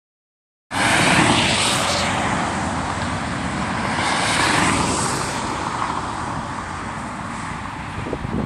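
Two trucks driving past one after the other, their engine and tyre noise swelling about a second in and again about four and a half seconds in, then fading away.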